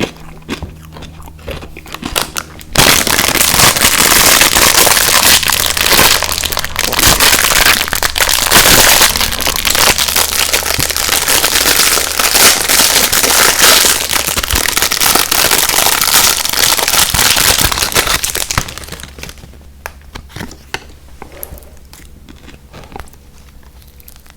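Loud, dense crinkling of candy packaging lasting about sixteen seconds, with quieter close-up chewing clicks before and after it.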